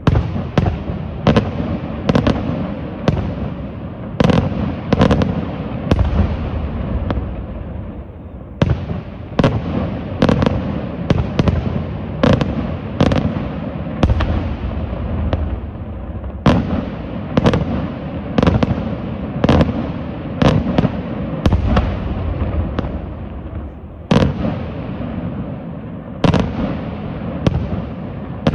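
Daytime fireworks display: a rapid, uneven series of loud bangs, more than one a second, each followed by a rolling echo.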